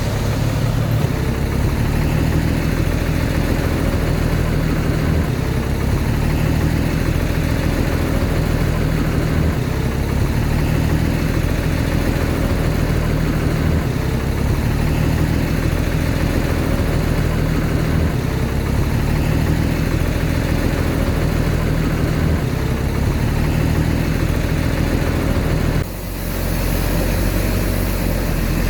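Heavy diesel earthmoving machinery running steadily with a low engine drone. About 26 seconds in, the sound dips briefly and then carries on with a different balance.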